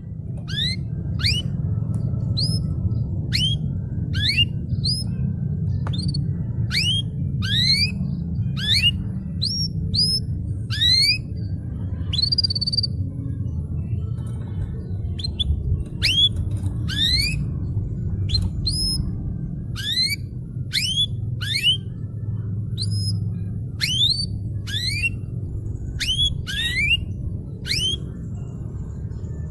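Domestic canary singing a long run of short whistled notes, each sweeping quickly upward, about one a second, over a steady low hum.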